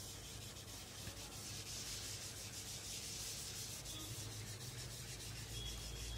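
Writing being done by hand: a steady, faint scratching rub of a pen across the writing surface.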